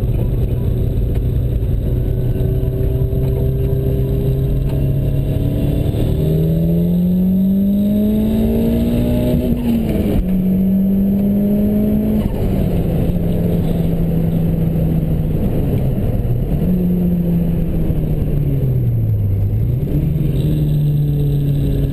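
Ford Sierra Cosworth's turbocharged 2.0-litre four-cylinder engine, heard from inside the cabin on track. It holds steady revs through a bend, then accelerates hard with a rising note, upshifting about ten and twelve seconds in. Near the end the revs dip twice and pick up again.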